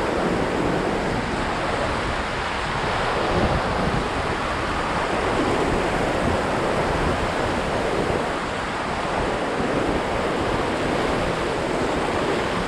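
Steady rush of whitewater on the Ganges around a raft, with wind buffeting the microphone.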